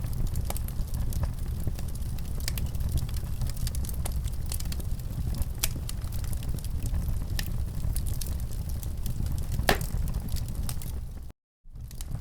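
Wood fire in a fireplace crackling, with scattered sharp pops over a steady low rumble and one louder pop near the end. The sound cuts out completely for a split second just before the end.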